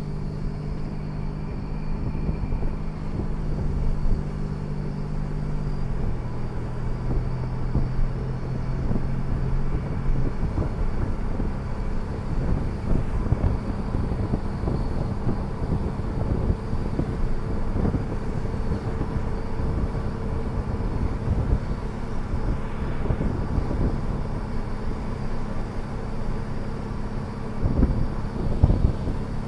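2008 Ford Edge drivetrain running under way, a steady hum whose pitch steps down about six seconds in, then a rough rumble with scattered clunks and a louder burst near the end. This is the noise of a bad transfer case (power transfer unit).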